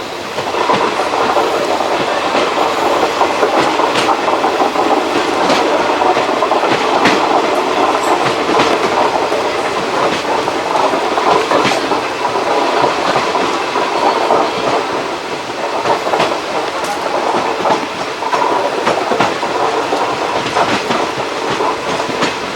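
Moving Indian Railways express train with ICF coaches: a steady rumble of wheels on track with irregular clickety-clack clicks over rail joints. The sound grows louder about half a second in.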